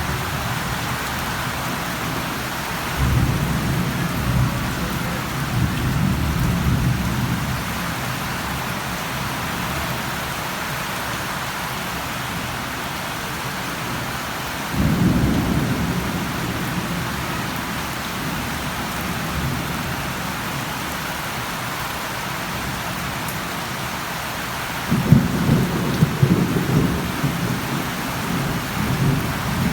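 Steady rain with rolling thunder: low rumbles swell about three seconds in, again around fifteen seconds, and a louder, uneven one near the end.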